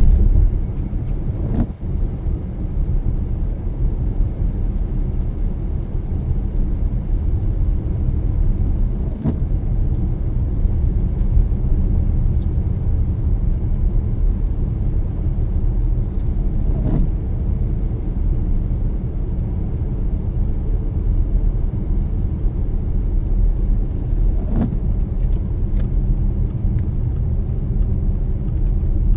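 A car driving at a steady pace, with a steady low road and engine rumble. A short click comes about every seven to eight seconds, four times in all.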